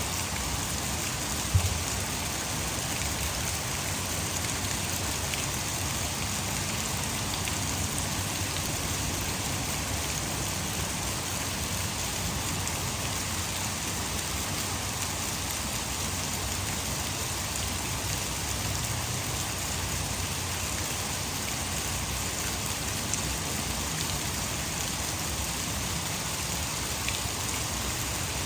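Heavy rain falling steadily, blended with the rush of water pouring over a hydroelectric dam. A single short low knock stands out about a second and a half in.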